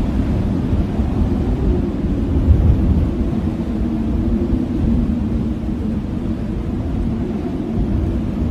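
Blizzard wind blowing steadily, a deep rumbling gust with a low howl that swells slightly about two to three seconds in.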